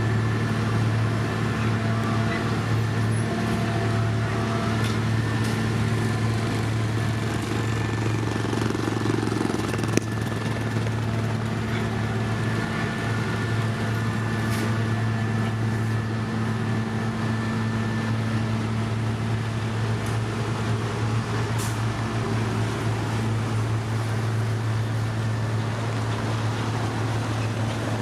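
Heavy road-paving machinery running steadily under a constant engine drone, with a single sharp click about ten seconds in.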